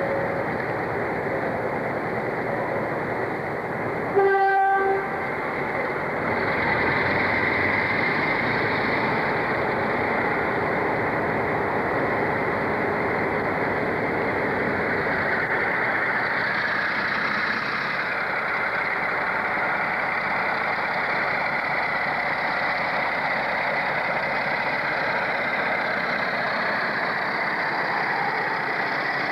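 A train running, with one short horn note about four seconds in, then a steady rail rumble that grows slightly louder and carries on.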